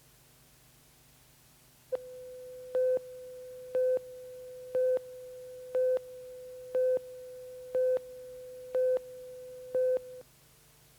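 A steady mid-pitched electronic tone that starts with a click about two seconds in and cuts off about ten seconds in. A louder beep at the same pitch sounds about once a second, eight times, like a busy signal or a countdown beep.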